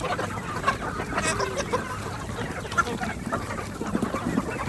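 A flock of Sonali chickens clucking, with many short calls overlapping one another.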